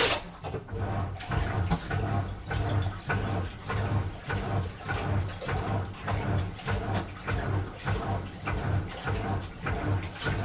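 A washing machine on a strong wash cycle: water and laundry slosh in the turning drum, with a low motor hum that swells in a steady rhythm, about three surges every two seconds. It starts with a sudden loud clunk.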